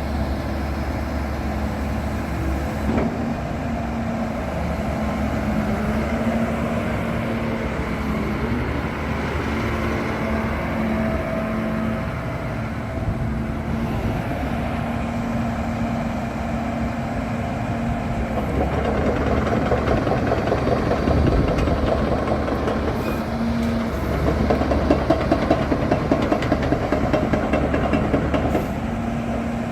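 Diesel engine of a Doosan 360LCA crawler excavator running steadily, its pitch and load shifting as it works. It grows louder about two-thirds of the way in, with a rapid, regular clatter over the last few seconds.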